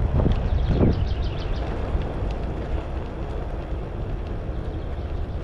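Wind buffeting the microphone with road rumble while riding a bicycle, and a brief run of light ticks about a second in.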